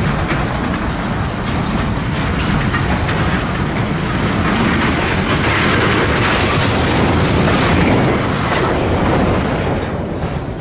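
Freight train cars clattering over the rails, then grinding and crashing as cars derail and tip over. Loudest about six to nine seconds in, with heavy knocks among the din.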